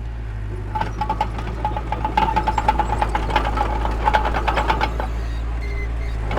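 Heavy diesel earthmoving machinery running with a steady low rumble; from about a second in to about five seconds a rapid metallic clatter with a thin squeal rides over it, then eases off.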